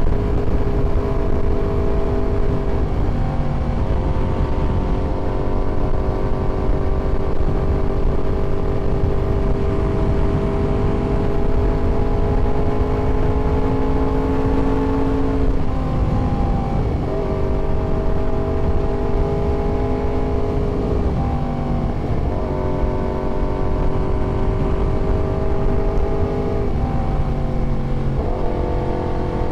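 Yamaha YZF-R1 inline-four engine running under way at a fairly steady speed. Its pitch dips and shifts four times, and holds nearly level in between.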